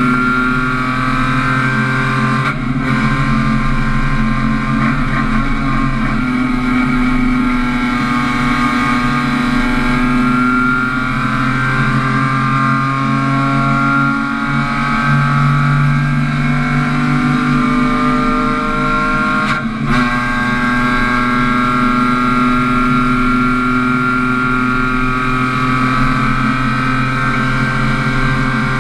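Renault Twingo race car's four-cylinder engine heard from inside the stripped cabin, pulling steadily under load with its pitch slowly rising and falling. Twice, about three seconds in and again near twenty seconds, the engine note breaks off for a moment before picking up again.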